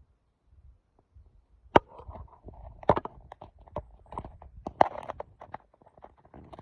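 Close rustling with a quick run of sharp clicks and knocks. It starts about two seconds in and cuts off suddenly at the end.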